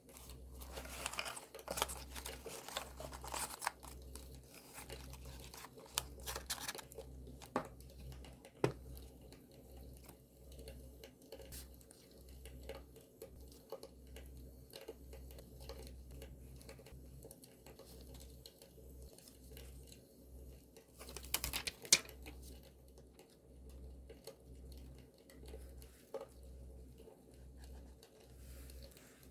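Paper being handled by hand: crinkling and tearing for the first several seconds, then quieter scattered rustles and small clicks, with a sharp loud rustle about 21 seconds in. A campfire recording plays quietly underneath.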